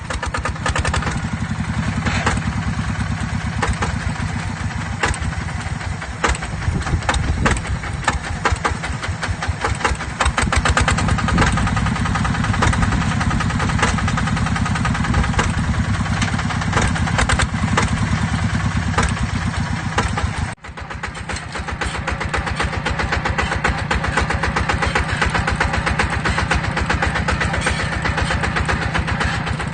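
Single-cylinder diesel engine of a mini tractor running with a steady, rapid putter. The sound drops out for a moment about two-thirds of the way through, then carries on.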